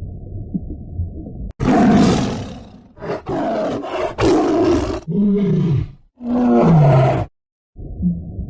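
A large animal's loud calls, several in a row from about a second and a half in, the last two falling in pitch. They are bracketed by a muffled low rumbling.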